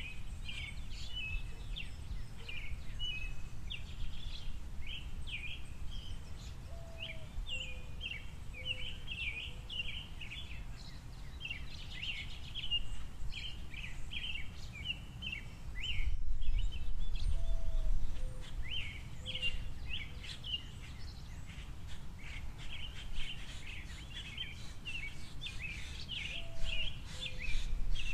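Small songbirds chirping in quick, overlapping calls, over a steady low rumble that swells around the middle and again near the end.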